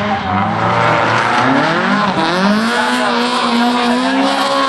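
Opel rally car engine running loud. About a second and a half in, the revs climb sharply and then hold high.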